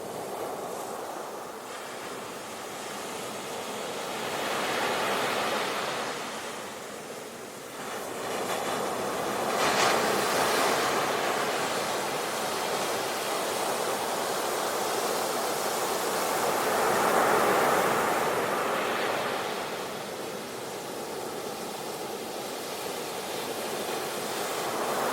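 Ocean waves breaking and washing on a beach, the surf swelling and easing several times.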